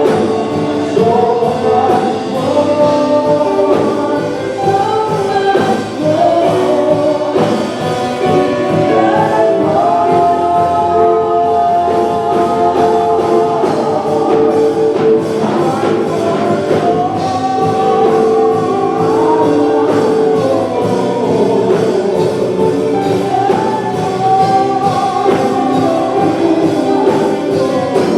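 Gospel choir singing a worship song with band accompaniment and a steady drum beat, the voices holding long notes.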